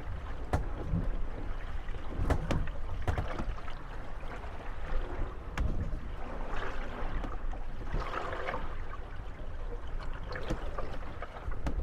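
Moored gondolas rocking on the waves and lapping water, their hulls knocking and creaking against one another now and then. The knocks are scattered, and the water grows louder for a couple of seconds past the middle.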